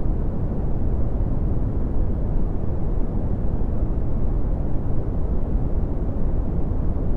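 Steady red (Brownian) noise: a deep, even rumbling hiss, strongest in the bass and falling away toward the treble, with no tones or changes.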